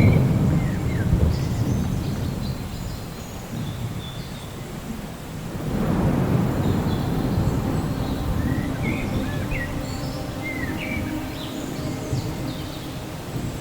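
Thunder rumbling twice, once at the start and again building about six seconds in, over a faint steady rain hiss, with short bird chirps in between.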